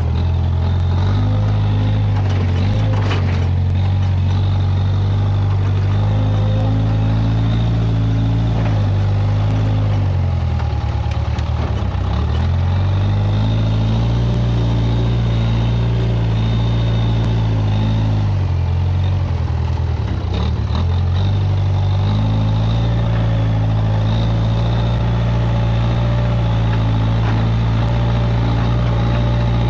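Case 580G backhoe loader's diesel engine running steadily at working speed, its pitch sagging twice, about ten and twenty seconds in, as it takes a load, then picking back up.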